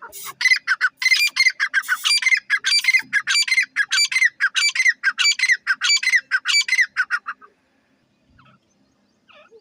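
A teetar (francolin) calling loudly: a rapid, unbroken series of harsh repeated call notes for about seven seconds, stopping abruptly.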